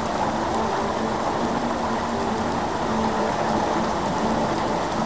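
Rain falling steadily during a thunderstorm: a continuous, even hiss of water hitting the ground.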